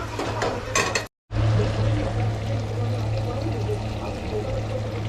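Cooking in a pan: a few quick clinks of a utensil, a brief dead gap about a second in, then a steady noisy sound of liquid in the pan, over a constant low hum.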